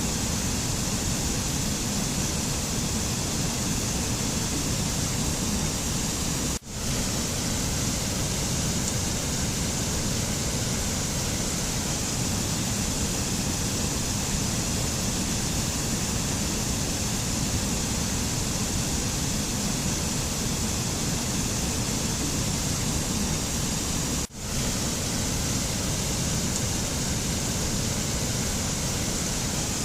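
Steady, even rushing noise of a mountain ambience recording, with no distinct events; it cuts out for an instant twice, about 7 and 24 seconds in.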